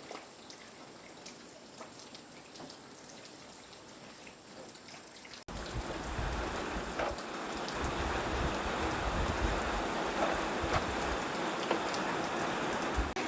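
Rain pattering: scattered drop ticks over a light hiss. About five and a half seconds in it switches abruptly to a louder, fuller hiss with a low rumble underneath.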